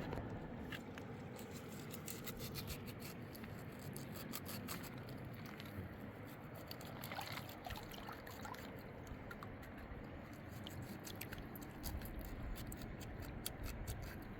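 Steady rush of river water, with many small sharp clicks and scrapes scattered over it.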